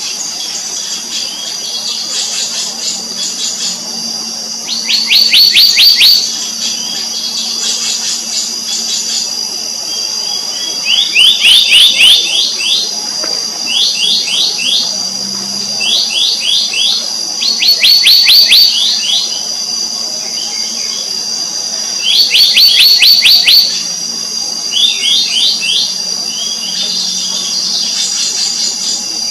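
Black-naped monarch calling in repeated bursts of rapid, sharp notes every few seconds. Insects drone steadily and high-pitched underneath.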